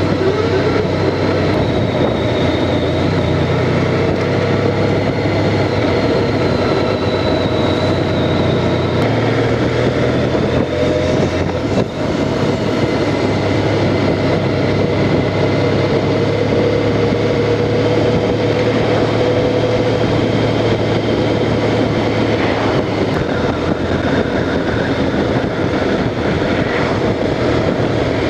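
Honda Crosstourer's V4 engine running steadily while the motorcycle is ridden, mixed with heavy wind rush on the microphone. The engine note drops a little about ten seconds in.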